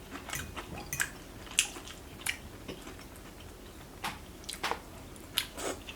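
Close-up chewing and mouth sounds of someone eating chicken stew, with a scattering of short sharp clicks.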